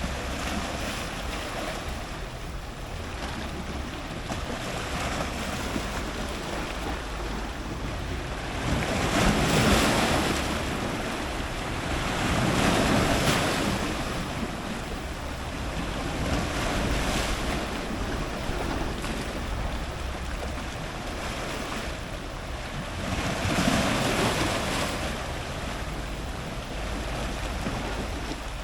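Ocean surf breaking on rocks, with waves rushing in as several louder surges over a steady low rumble.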